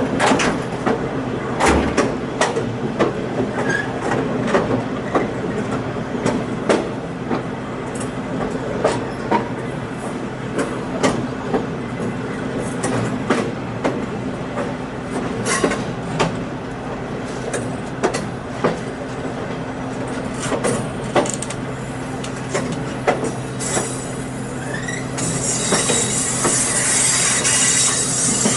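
Diesel-hauled passenger train rolling along: a steady low hum with irregular sharp clicks and clunks from the wheels over the rails. Near the end a high hissing squeal joins in, typical of wheels squealing on a curve.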